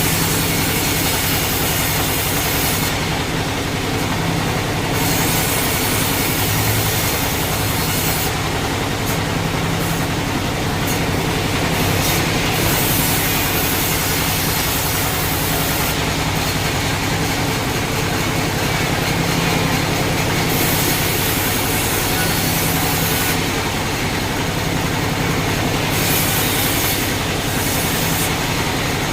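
Sawmill machinery running steadily, a constant hum under a high hiss that fades and returns every few seconds.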